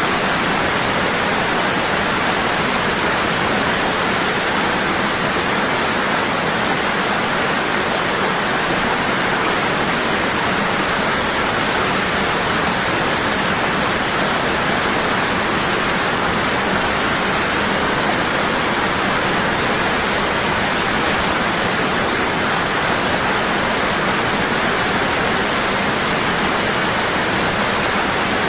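Waterfall: water falling hard and constantly, an even steady rush.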